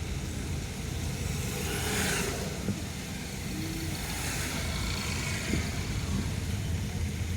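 Car driving on a wet road: steady low engine and road rumble under a hiss of tyres on water, which swells twice, about two seconds and four and a half seconds in.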